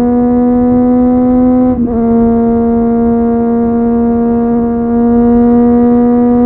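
Triumph Street Triple 765 RS inline-three engine through an Akrapovic exhaust, pulling hard at high revs with a steady droning pitch that slowly climbs. Just under two seconds in the sound briefly cuts out and drops slightly in pitch, then carries on climbing.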